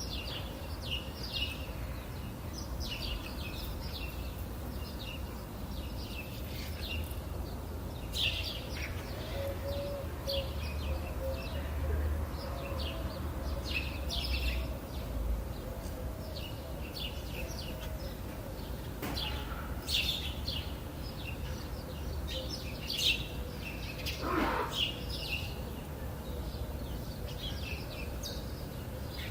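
Wild songbirds chirping and twittering in many quick, short, high calls throughout, over a steady low rumble. About twenty-four seconds in there is one lower, longer call.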